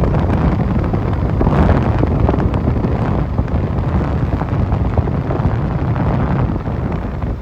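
Loud, rushing wind buffeting the microphone, fluttering unevenly and easing slightly near the end.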